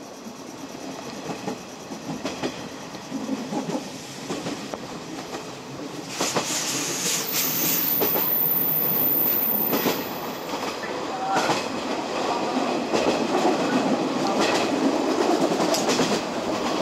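Running noise of a train heard from inside the carriage: wheels on the rails, with scattered clicks over the rail joints. It gets louder about six seconds in, and a thin, very high whine sounds for about two seconds in the middle.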